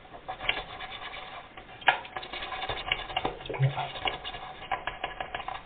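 Toothbrush scrubbing grime off a plastic part of an agitator washing machine: irregular scratching strokes with small clicks and taps.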